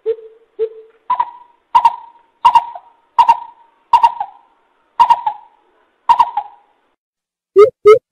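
Coucal (bubut) hooting: two low hoots, then a slowing series of higher, louder hoots, and near the end a quick run of deep hoots begins.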